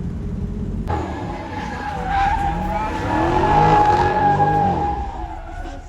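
Car doing a burnout: a loud, sustained tire squeal starts suddenly about a second in, with the engine revving up and back down under it, and fades out near the end. It is preceded by a low road rumble.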